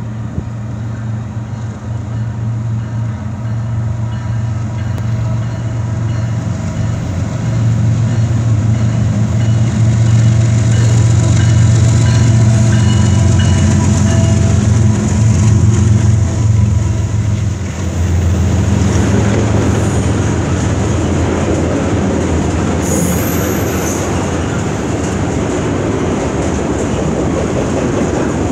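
Two CN diesel freight locomotives approaching and passing below, their engines a deep steady drone that grows louder. About 18 seconds in the engine drone gives way to the rolling rumble and rattle of freight cars going by, with a brief high wheel squeal a little later.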